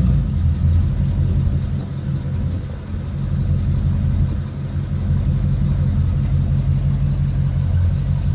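1966 Ford pickup truck's engine running with a loud, steady low rumble, the truck fixed up to be noisy.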